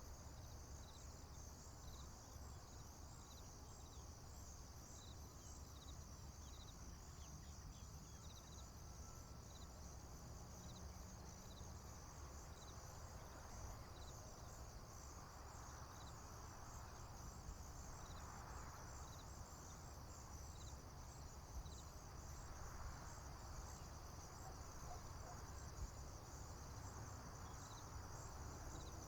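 Faint field crickets and other insects trilling steadily, a high pulsing chorus with a regular chirp about once a second, over a low rumble. A soft rush of noise swells and fades through the middle.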